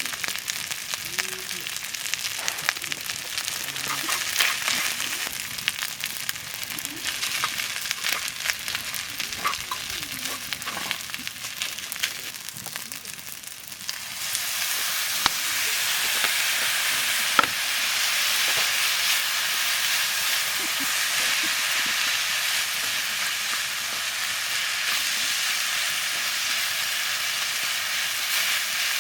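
Food frying in a pan over a campfire, with stirring and scattered crackles. About halfway through the sizzle becomes louder and steadier.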